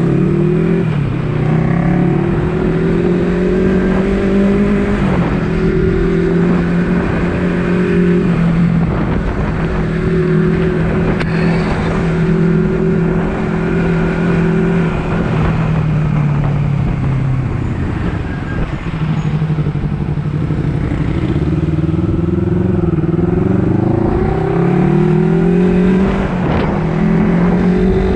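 Honda CBR250RR parallel-twin motorcycle engine under way: it picks up revs with a rising pitch and a short dip at a gear change early, holds a steady cruising note, eases off around the middle, then climbs again in steps through gear changes near the end.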